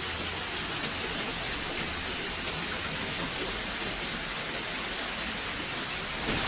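Steady hiss of torrential rain and running floodwater in a flooded street.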